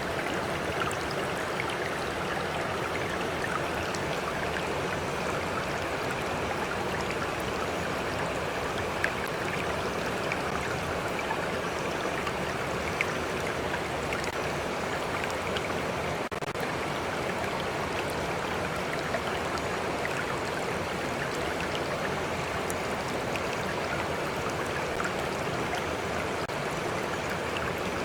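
A stream flowing with a steady rush of water and small splashes ticking through it here and there.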